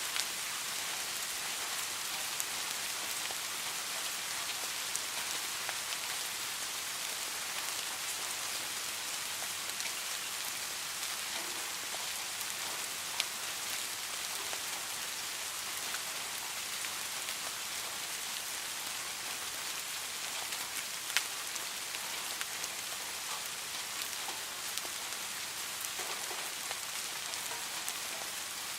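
Steady rain falling, an even hiss with a few sharper single ticks standing out, the clearest about halfway through and again about two-thirds of the way in.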